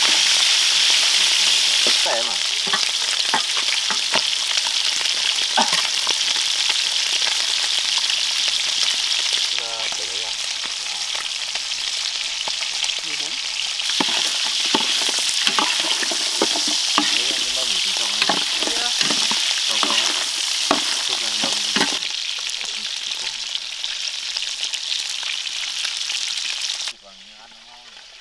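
Pork ribs sizzling as they fry in hot oil in a pan, with the scrape and knock of a utensil turning them many times. The sizzle cuts off sharply near the end.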